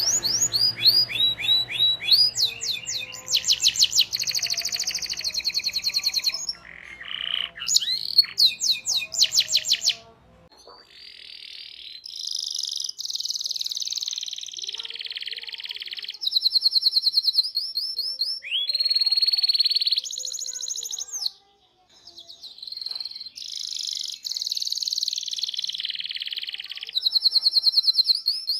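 Domestic canary singing: phrase after phrase of fast repeated high chirps and long rolling trills, with brief pauses between phrases.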